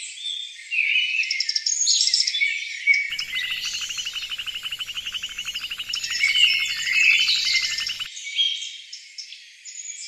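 Small birds chirping, several overlapping at once, with a rapid, even trill running through the middle few seconds.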